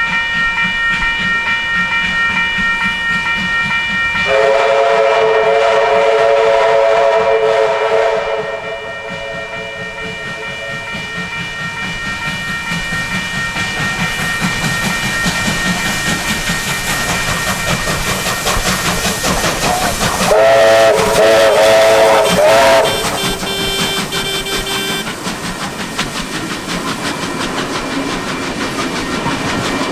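Passing train, with a constant rolling rumble and hiss. The locomotive's whistle sounds twice: one long blast of about four seconds starting around four seconds in, and a shorter blast of about two and a half seconds around twenty seconds in. A high steady ringing tone is heard during the first few seconds.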